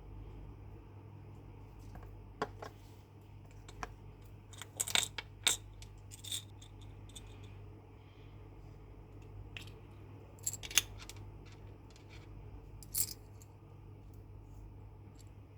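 Small hard plastic pieces of a miniature craft kit clicking and clinking as they are handled and set down, a dozen or so scattered sharp taps over a steady low hum.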